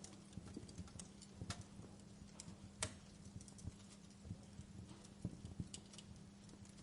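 Burning logs crackling in a fireplace: irregular sharp pops and snaps, the loudest about three seconds in, over a faint steady low hum.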